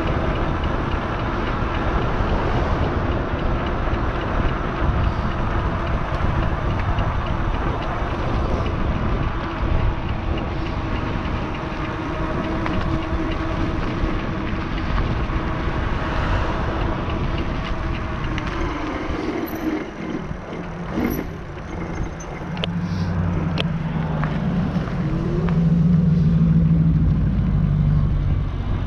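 Riding noise from an e-bike under way: a steady rush of wind and tyres with a faint steady whine. The noise dips about twenty seconds in, then a lower hum swells near the end.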